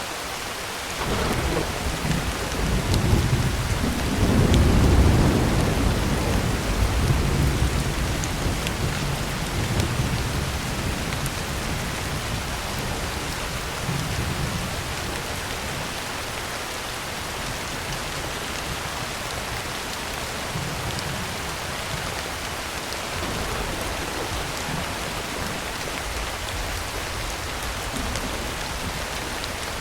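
Heavy rain falling steadily on a tin roof, with a roll of thunder that begins about a second in, swells to its loudest a few seconds later and slowly rumbles away.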